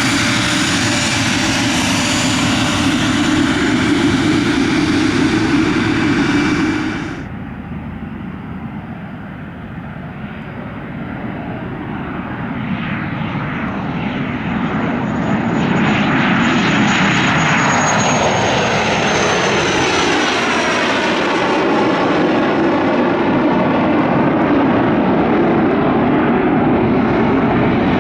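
Aircraft engine noise at close range. It cuts off abruptly about seven seconds in. Then another aircraft's engines build up loudly, with a high whine that slowly falls in pitch as it passes.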